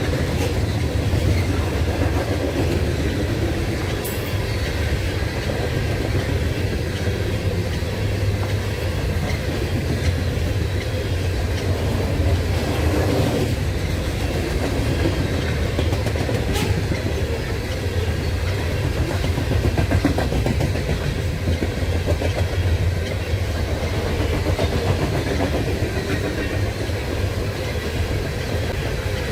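Freight train cars rolling past, a steady, continuous rumble of wheels on rail.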